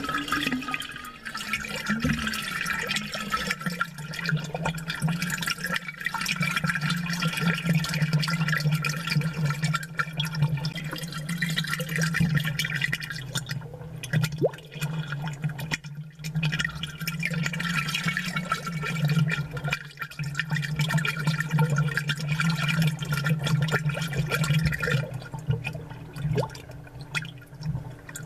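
Aquarium water bubbling, with a steady low hum underneath. The higher bubbling drops away near the end while the hum carries on.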